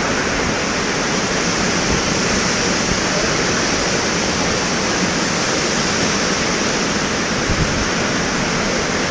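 Thomson's Falls, a 74 m waterfall, heard from its base: the plunging water makes a loud, steady rush of noise.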